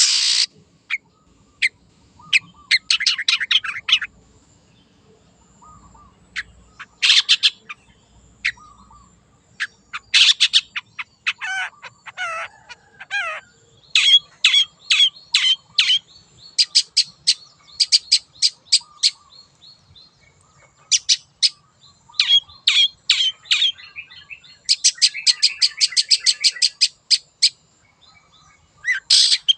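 Long-tailed shrike (cendet) singing: bursts of short, rapid notes in quick runs separated by brief pauses, with a dense fast run of notes near the end.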